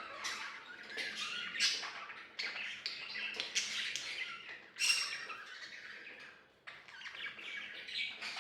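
Budgerigars chattering and warbling in a rapid, continuous run of short squawks and chirps, with a brief pause about six and a half seconds in.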